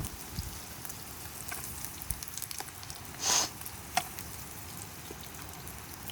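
Frying pan sizzling at low level, a steady hiss with scattered small crackles and pops, and a brief louder hiss about three seconds in.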